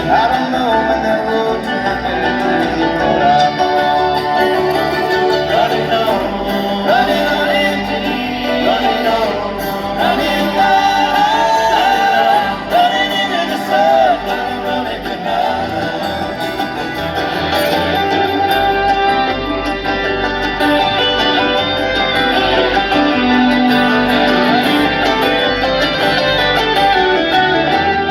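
Live bluegrass band playing, with a lead vocal singing over picked acoustic guitar and banjo.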